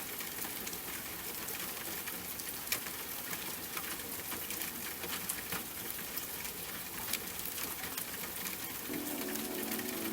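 Steady rain with scattered individual drops ticking. About nine seconds in, soft sustained music tones come back in under the rain.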